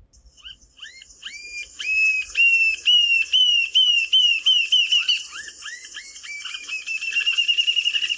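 Rufous-tailed jacamar singing: a series of high, upward-sweeping whistled notes that speed up into a fast trill.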